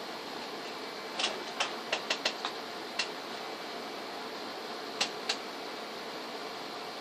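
A run of short, sharp clicks, six in quick succession, then one more, then a pair a couple of seconds later, over a steady hiss.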